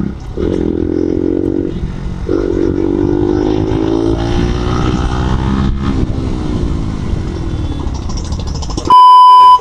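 Single-cylinder motorcycle engine revving while riding, its pitch rising and then slowly falling twice. Near the end a loud, steady electronic beep cuts in for under a second.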